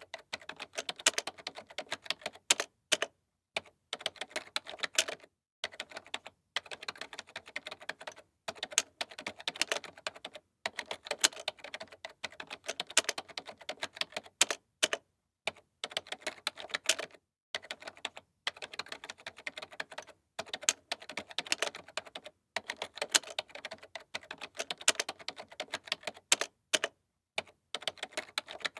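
Computer keyboard being typed on: rapid runs of keystroke clicks a few seconds long, broken by brief silent pauses.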